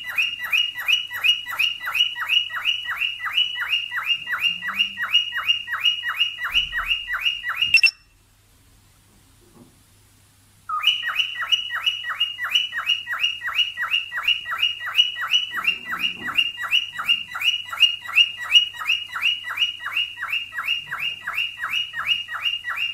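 Cockatiel mating call: a fast, even series of short downward-sweeping chirps, about four or five a second. The chirps break off for about three seconds a third of the way in, then start again.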